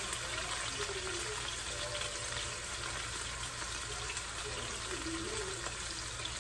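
Food sizzling and crackling steadily in hot oil in a frying pan.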